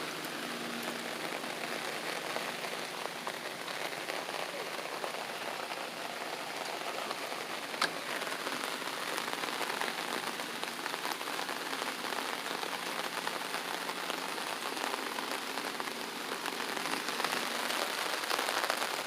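Steady light rain falling, with one sharp tap about eight seconds in.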